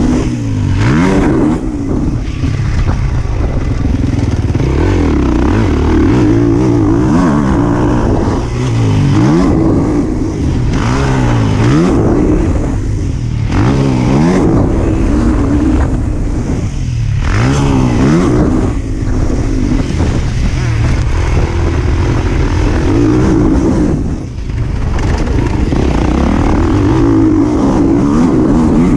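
Motors revving hard and continuously, the pitch sweeping up and dropping back again and again.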